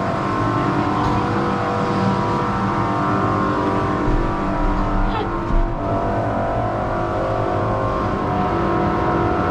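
Steady, loud machine hum with several constant tones over a low rumble, typical of a passenger ropeway (cable car) station's drive machinery running as gondolas are boarded.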